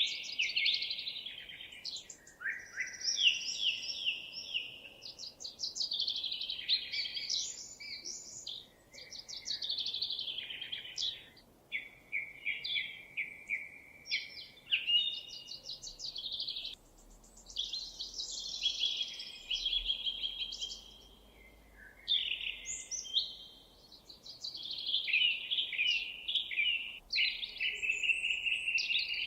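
Songbirds singing a near-continuous run of varied phrases: fast trills, rapid repeated notes and sweeping whistles, with only brief pauses between phrases.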